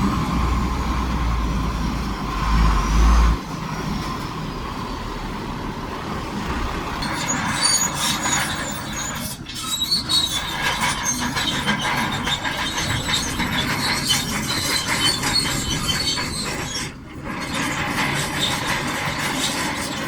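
Shantui DH17C2 crawler bulldozer working: its engine runs with a heavy rumble for the first few seconds. Then a stretch of squealing and clanking from the steel tracks follows.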